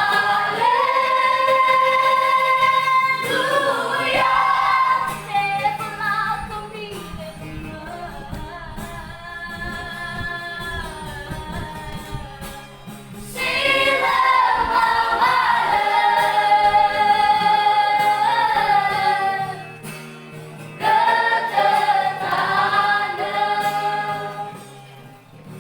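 High-school vocal group singing a Christian praise song, female voices in long held notes. A softer passage comes a few seconds in, then two loud phrases, and the singing fades at the end.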